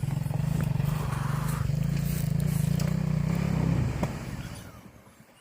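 Motorcycle engine running steadily with an even low pulse, then dying away about four seconds in until it is gone.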